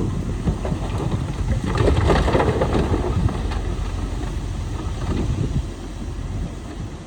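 Heavy earthmoving machinery running: bulldozer and dump truck diesel engines at work, with wind buffeting the microphone. The sound swells about two seconds in.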